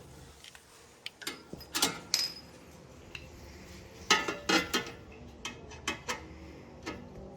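Metal hand tools clinking and knocking: scattered sharp metallic clinks in a few irregular clusters, the loudest near 2 seconds in and between 4 and 5 seconds in.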